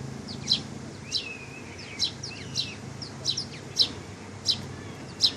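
Small birds chirping: short, sharp high chirps about every half second, with a couple of lower slurred calls in between, over a faint steady low hum.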